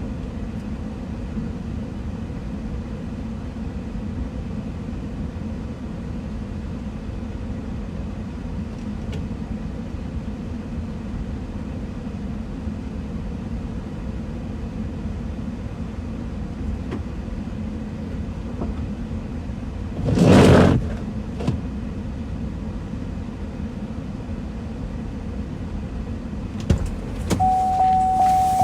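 A car engine idling steadily, heard from inside the cabin. About two-thirds through there is a brief swish about a second long; near the end come a few clicks and then a steady electronic tone.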